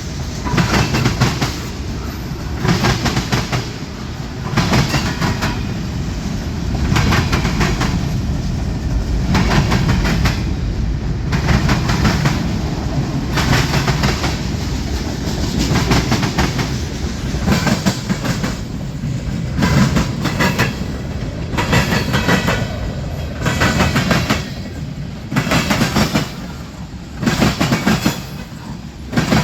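Freight train rolling past, its car wheels clacking over the rail joints in repeated clusters over a steady low rumble.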